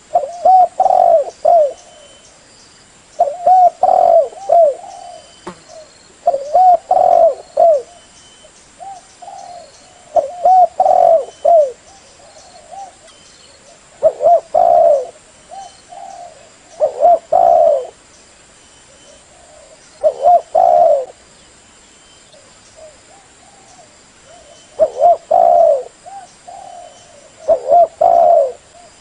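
Female spotted dove cooing, a lure call for trapping male doves: short phrases of a few low coos repeated about every three seconds.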